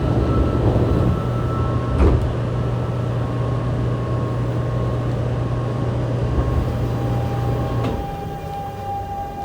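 Inside a Fukuoka City Subway 2000-series car with a Hitachi GTO-VVVF inverter: a steady hum with a single thump about two seconds in. Near the end a click comes, the hum drops away and a steady whine starts, as the inverter begins to drive the train out of the station.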